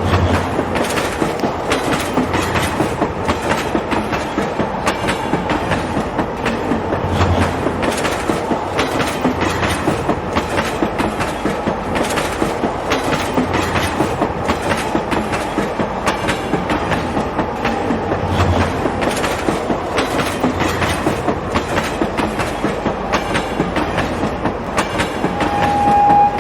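A train running on rails, its wheels clicking rhythmically over the rail joints in a fast, steady clickety-clack. Near the end a steady high tone swells loudly over it.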